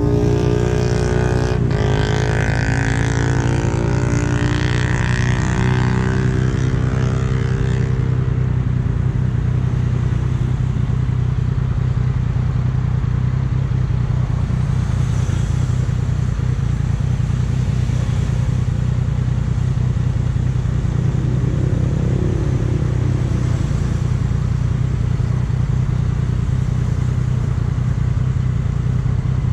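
Yamaha MT-09's three-cylinder engine running steadily, a constant low hum. A separate pitched sound fades out over the first several seconds.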